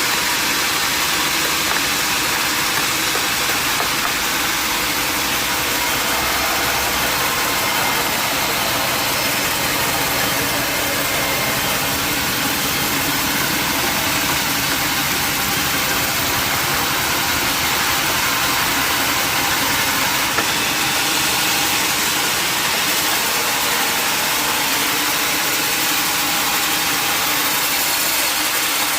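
Sawmill machinery running steadily, a constant engine-driven mechanical noise with a hissing upper edge and no change in pitch or level.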